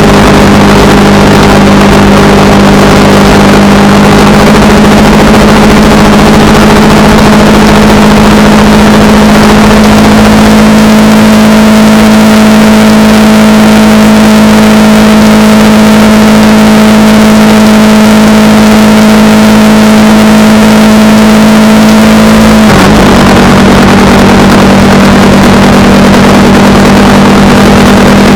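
Honda Rebel 300's single-cylinder engine running steadily under way at cruising speed, loud, over a constant rush of wind noise. Near the end the engine note dips and settles at a slightly different pitch.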